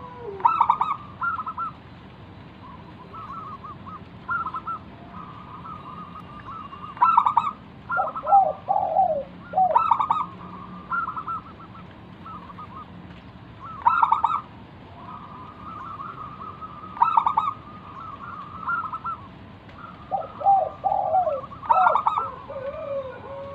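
Zebra dove (perkutut) singing, repeating its rapid cooing phrase every three to four seconds, with runs of lower, slower notes twice.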